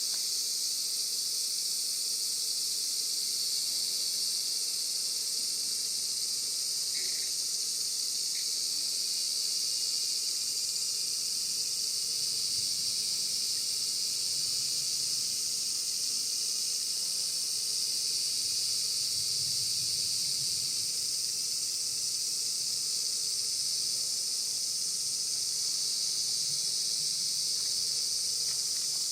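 Steady chorus of insects chirping, a continuous high-pitched hiss that doesn't let up.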